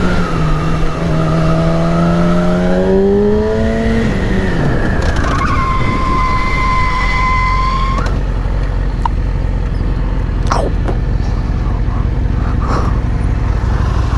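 Yamaha R6 sport-bike engine pulling with its pitch climbing, then dropping away as the throttle closes about four seconds in, under steady low wind rumble. A steady high whine follows for about two seconds, then the riding continues with wind noise and a few light ticks.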